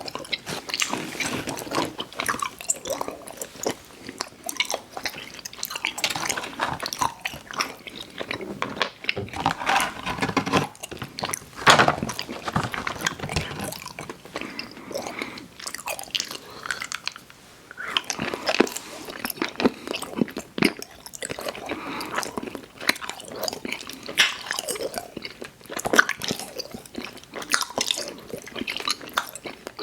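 Close-miked chewing of sour gummy worms cereal: irregular wet smacks, squishes and crunches from steady mouthfuls.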